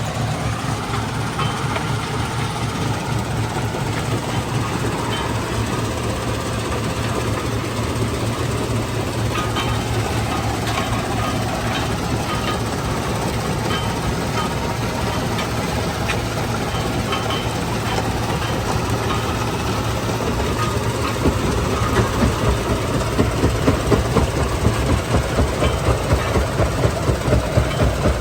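Stone crushing plant machinery running with a dense, steady heavy rumble. About two-thirds of the way through, a louder rhythmic pulsing of roughly two to three beats a second sets in.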